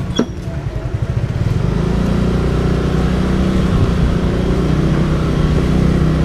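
Motorcycle engine running low and uneven, then picking up about two seconds in as the bike pulls away, and running steadily under way.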